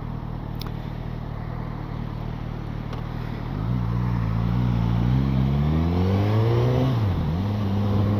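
Motorcycle engine running steadily at low revs, then pulling away about three and a half seconds in, its note rising as it accelerates. The note drops briefly for a gear change near the end.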